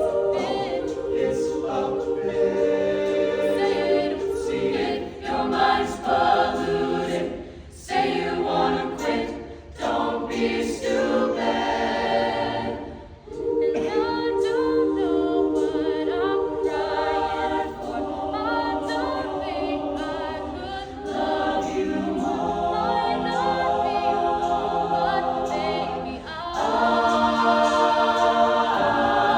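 Choir singing a cappella in several-part harmony: phrases of held chords with short gaps between them.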